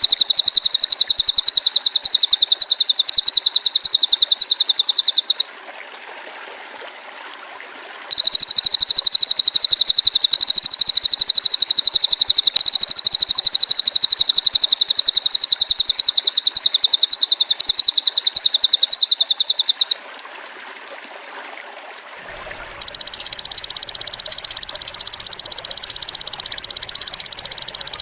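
Masteran recording of a cililin bird and a belalang emas insect. Long, very fast, high-pitched pulsing trills break off about five seconds in and resume at about eight seconds, running to about twenty seconds. After a short gap, a narrower, lower trill starts near the end. A faint trickling stream runs underneath.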